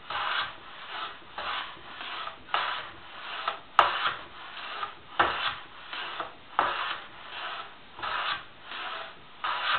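Hand plane smoothing a wooden board, taking thin full-length shavings. There are about eight rasping strokes, roughly one a second, and a sharp click about four seconds in.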